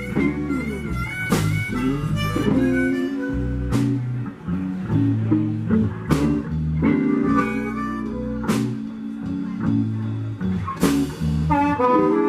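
Electric blues band playing an instrumental break: harmonica over electric guitar and drums, with a cymbal crash about every two and a half seconds.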